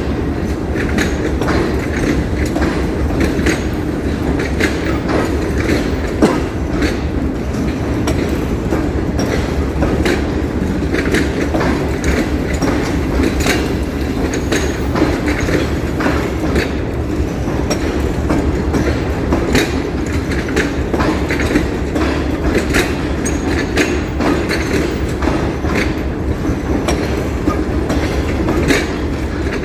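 A train running along the track with a steady rumble, its wheels clicking over the rail joints over and over.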